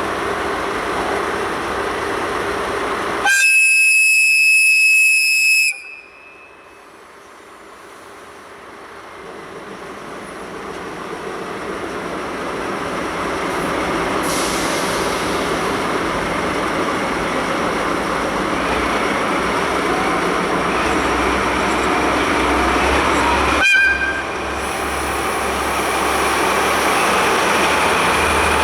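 Diesel locomotive horn of the Hokutosei sleeper express, hauled by DD51 diesel locomotives, sounding one loud blast of about two and a half seconds. The train then rumbles in, its running noise building steadily. Near the end there is a short horn toot over the low rumble of the diesel engines.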